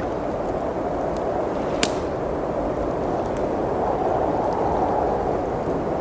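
Blizzard wind blowing steadily, swelling and easing, with a few sharp fireplace crackles; the loudest pop comes just under two seconds in.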